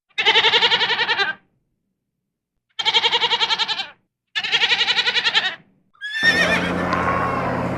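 An animal bleating three times, each call about a second long with a fast quaver, with short silences between. About six seconds in, a different, busier animal sound with gliding calls begins.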